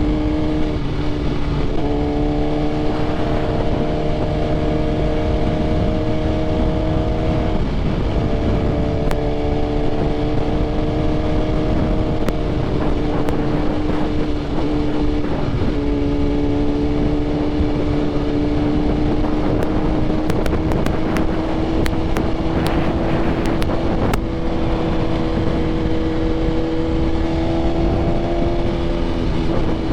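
BMW S1000RR inline-four sport bike with aftermarket titanium headers and an SC Projects CRT exhaust cruising at steady throttle, over wind rush. The engine note holds an even pitch that creeps slowly upward and dips briefly about four times as the throttle is rolled off and back on.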